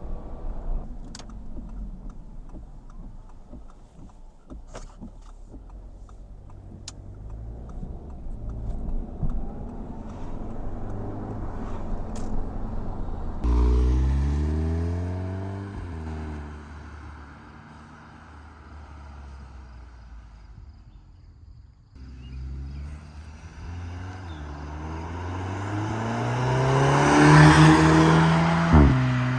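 Audi TTS's turbocharged four-cylinder engine accelerating up through the gears and driving past, its pitch falling as it goes by. A second pass builds from about two-thirds of the way in to the loudest point near the end. The owner calls the sound vacuum-cleaner-like, with the car on its stock exhaust.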